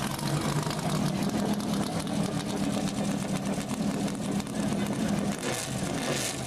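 An engine running steadily at idle, a low even hum with rapid fine ticking over it.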